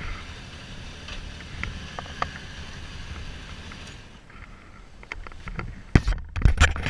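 Low, uneven rumble of a Kawasaki Z1300's inline-six engine at idle, which is not running on all cylinders, with light clicks. About six seconds in come several loud knocks and rattles close to the microphone.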